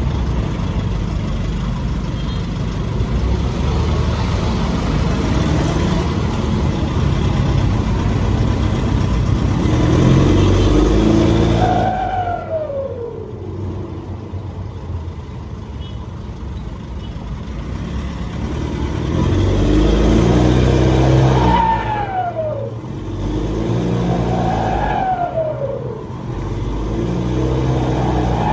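Nissan Navara's turbocharged engine pulling hard through a muffler-deleted, free-flow exhaust. Four times, on lifting off the throttle, the turbo gives a falling whistle as it spools down, with the flutter of the deleted muffler.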